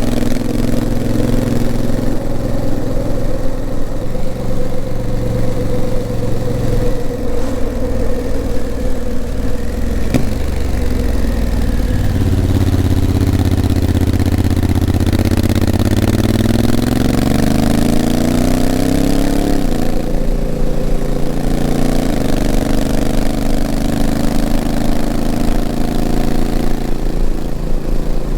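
Honda CRF1000L Africa Twin's 998 cc parallel-twin engine running under way, its pitch stepping up and down several times as the dual-clutch gearbox changes gear. In the middle stretch the revs climb steadily for a few seconds, then drop sharply.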